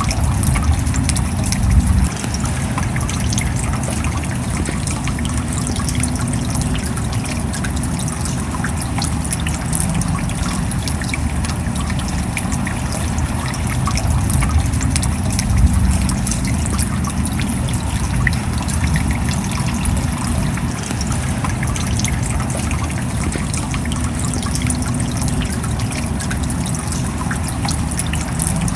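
Steady rain falling: an even wash of water noise dense with small drop ticks, over a low rumble.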